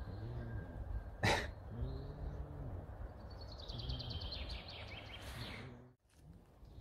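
Birds calling outdoors: repeated low cooing calls, then a fast descending trill of high notes. A single sharp click comes about a second in.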